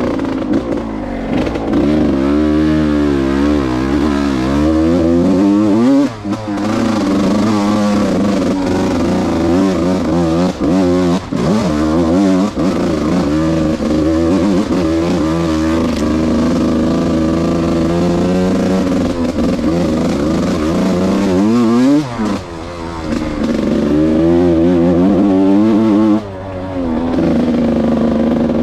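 Yamaha YZ125's single-cylinder two-stroke engine being ridden hard off-road, revving up and dropping back over and over, with a few brief throttle-offs.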